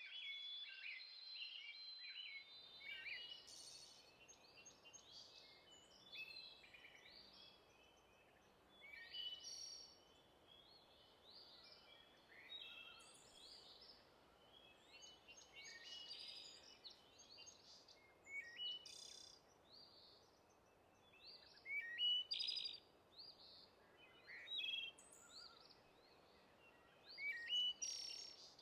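Songbirds chirping and singing, many short calls and trills overlapping at irregular intervals over a faint steady background hush that comes in a couple of seconds in.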